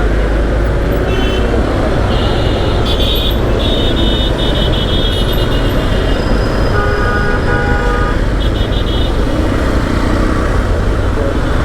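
Road and wind noise from a moving motorcycle in heavy city traffic, a steady low rumble, with vehicle horns honking over it: short high-pitched toots about a second in, around three to four seconds and near nine seconds, and a lower horn about seven seconds in.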